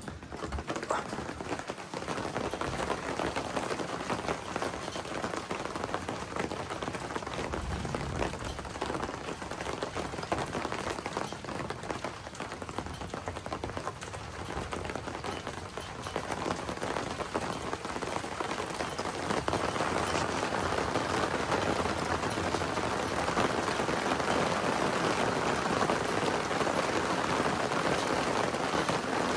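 Heavy rain falling during a thunderstorm, a dense patter of drops that grows heavier and louder about two-thirds of the way through.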